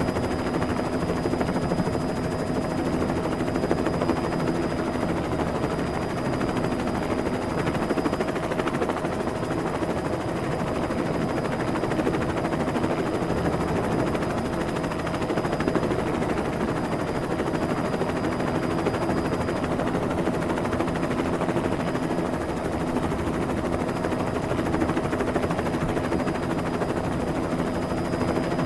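Helicopter sound effect: a steady, rapid rotor chop.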